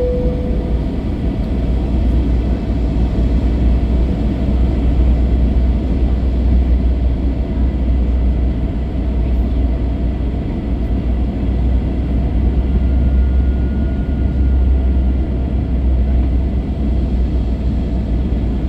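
Steady cabin noise inside an Airbus A321 airliner on final approach: engine and airflow noise with a deep, constant rumble underneath. A short tone sounds right at the start.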